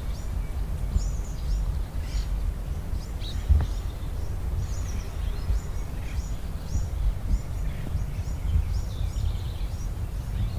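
Small birds chirping repeatedly in short high calls over a steady low rumble, with one sharp crack about three and a half seconds in.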